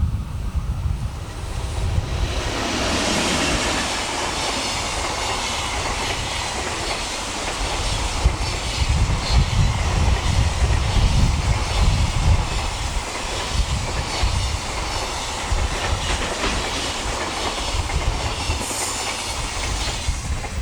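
Container freight train hauled by an EH500 electric locomotive passing at speed. The locomotive comes in suddenly about two seconds in, followed by a long run of wagons with steady rail noise and a repeating clickety-clack of wheels over rail joints.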